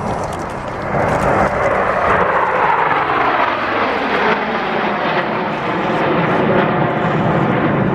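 F/A-18 Hornet jets flying past with their twin General Electric F404 turbofans: the jet noise swells about a second in and stays loud, with a whine that falls in pitch as the jets go by.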